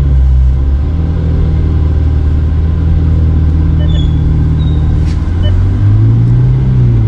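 Ferrari F8 Spider's twin-turbo V8 running at low speed under light throttle, a steady low drone heard from the open cockpit; its note rises a little about five and a half seconds in.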